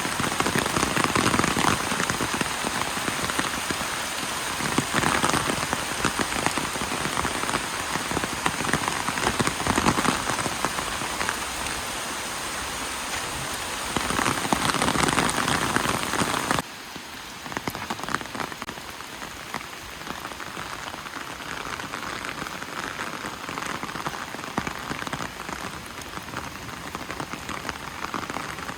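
Steady heavy rain, a dense patter of drops that swells and eases; about two-thirds of the way through it drops suddenly to a quieter, lighter rain.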